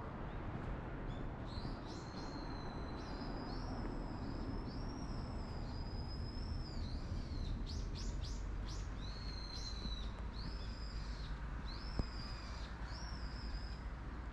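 A small songbird sings a run of high, clear whistled phrases, about a dozen of them, with a quick burst of rapid downward notes midway. A steady low rumble runs underneath.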